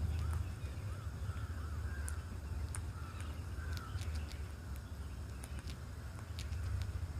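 Birds calling: a series of short arched calls in the first four seconds and sharp high chirps scattered throughout, over a steady low rumble.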